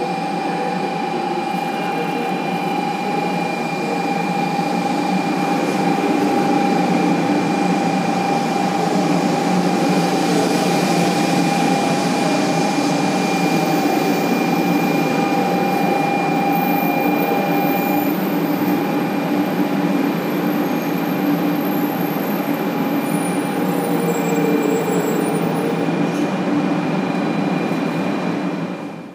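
500 series Shinkansen pulling into a station platform and slowing to a stop: a loud, steady running noise with a steady whine that stops about two-thirds of the way through.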